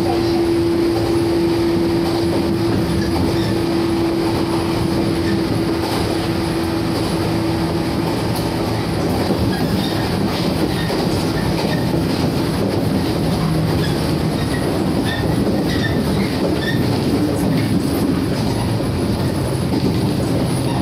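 Shinano Railway 115 series resistor-controlled electric train running, heard from aboard: a continuous rumble of traction motors and wheels on rail with some rail-joint clicks. A steady humming tone fades out about eight seconds in.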